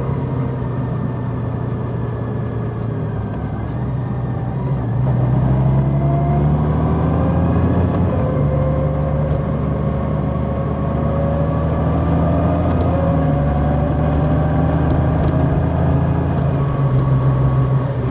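Large motorcycle engine running steadily while riding, its note climbing slowly over several seconds as the bike gathers speed.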